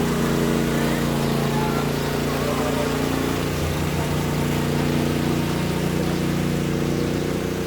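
An engine running steadily at an even pitch, its tone shifting slightly about three seconds in.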